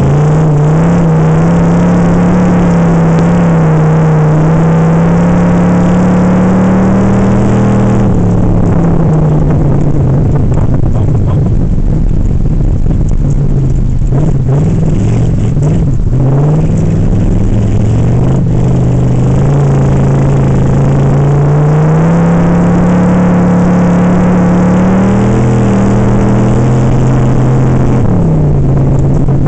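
Ice-racing car's engine heard from inside its own cabin, running hard under load. The revs climb slowly, fall away about a quarter of the way through, then climb again and fall once more near the end, as the driver gets on and off the throttle around the track.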